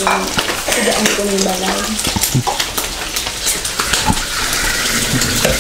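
Pork frying in oil in a wok, a steady sizzle with clicks and scrapes of stirring. A voice sounds briefly about a second in.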